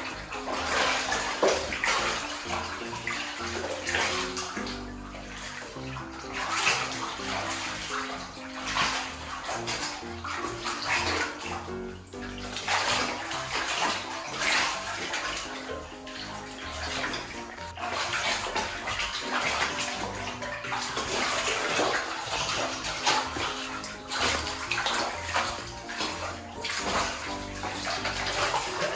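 Two otters splashing and tumbling in a bathtub of water, the splashing coming in uneven surges. Background music plays underneath.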